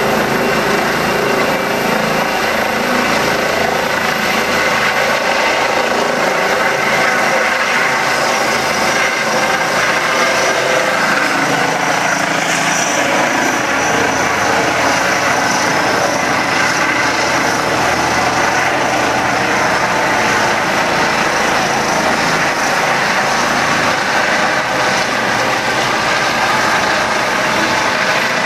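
Helicopter running loudly and steadily as it leaves a football pitch, rotor and engine noise with a high thin whine that fades over the first few seconds.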